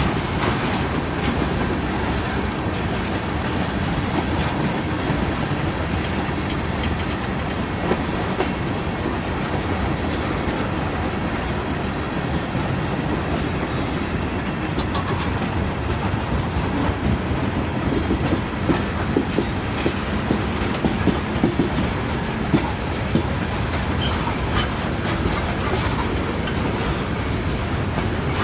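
Norfolk Southern freight train's cars rolling past at close range: a steady rumble of steel wheels on rail, with sharper wheel clicks in the second half.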